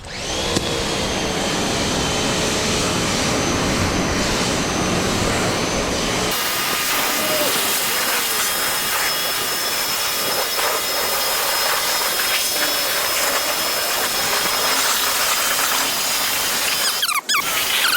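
Car-washing equipment running: a loud, steady rushing hiss with faint high whining tones, which changes character about six seconds in.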